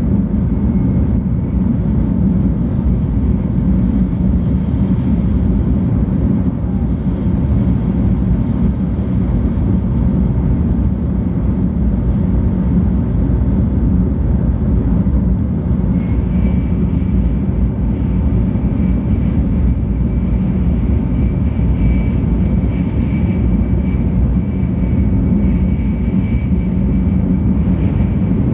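Steady running noise inside the passenger cabin of a 700 series Shinkansen: a constant low rumble of wheels and air. A faint high steady whine joins about halfway through.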